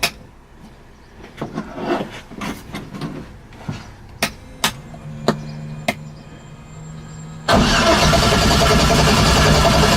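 Scattered light clicks and knocks over a faint low hum, then about three quarters of the way through a much louder, sustained burst as the swapped LS1 V8 is cranked over on the starter through its new exhaust. It does not settle into a run because the car is out of fuel.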